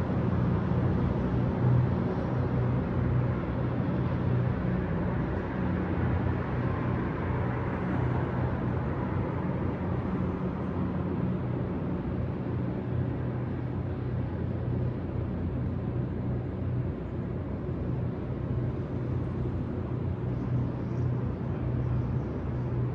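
Steady city traffic ambience: a constant wash of distant traffic noise over a low, even hum.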